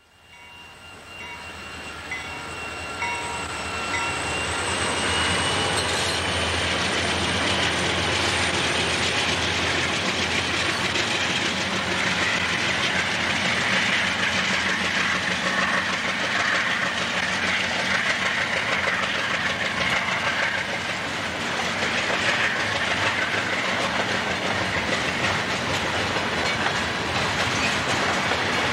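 CSX coal train rolling past: a steady, loud rumble of wheels on rail as the coal hopper cars go by. The sound rises over the first few seconds, then holds.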